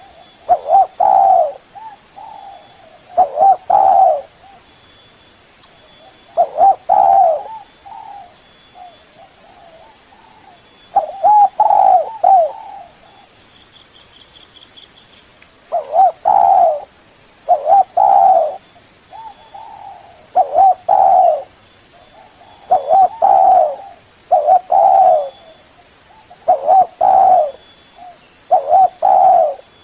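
Spotted dove cooing over and over, in short phrases of a few coos spaced about two to four seconds apart.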